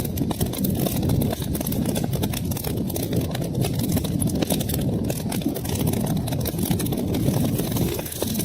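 Wood fire crackling in a fireplace: a dense, irregular run of small pops and snaps over a steady low rumble.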